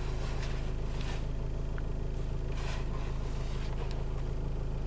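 Steady low hum inside a Land Rover Discovery Sport's cabin, with a few faint handling rustles.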